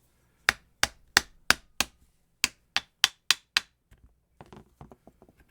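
Ten sharp tapping blows on the angle grinder during disassembly, in two runs of five at about three a second, followed by a few lighter, quicker clicks near the end.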